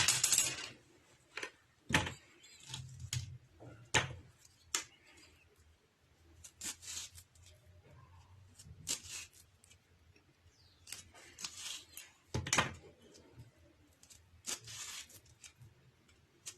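Knife cutting into whole lemons to score them for salt-preserving, with scattered sharp knocks and short scraping sounds.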